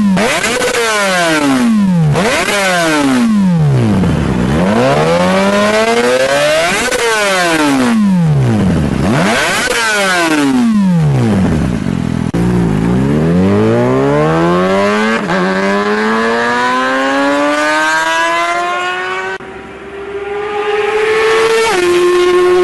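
Kawasaki ZX-25R's high-revving 250 cc inline-four through an aftermarket exhaust, revved hard several times, each rev rising to a high scream and falling back. In the second half the revs climb steadily for several seconds, then drop suddenly near the end as if shifting up a gear.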